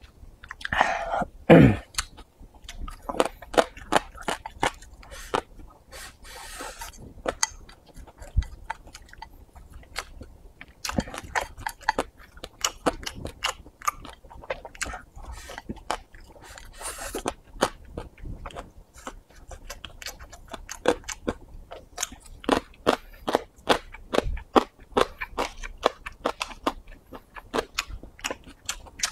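Close-up eating sounds: a person chewing mouthfuls of egg fried rice with wet lip smacks, and wooden chopsticks clicking against a ceramic bowl. About a second and a half in there is a loud short vocal sound that falls in pitch, just after a drink.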